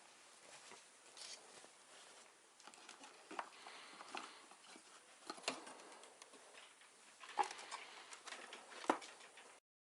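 Quiet hand-working sounds on computer parts and a plywood case: light rustles and taps, with three sharper clicks in the second half. The sound cuts off suddenly just before the end.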